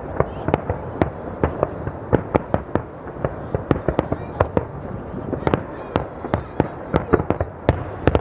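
Fireworks display going off in quick, irregular succession: many sharp bangs and crackling pops, several a second, with no pause.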